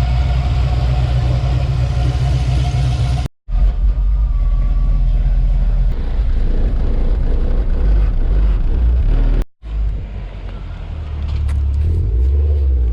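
Car engines running with a loud, low rumble, heard in three clips that cut off abruptly about a quarter of the way in and again about three quarters of the way in.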